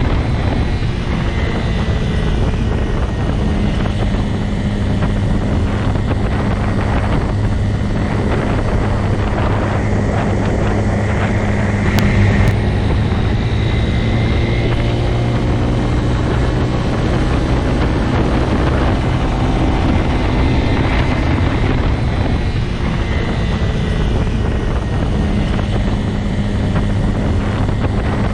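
Motorcycle engine running at a steady pitch throughout, a continuous drone with a brief slight swell about twelve seconds in.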